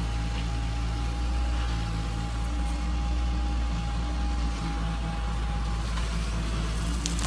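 Radio-controlled model construction machinery running: a steady low motor hum with a thin higher whine that stops near the end.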